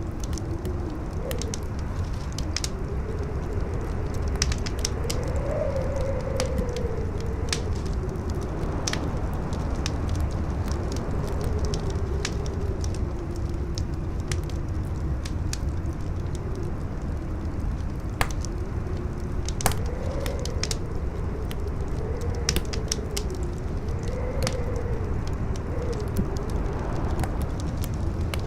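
Wind howling in a wavering tone that rises and falls over a low rumble, with a wood fire crackling in quick sharp pops throughout and two louder pops a little past the middle.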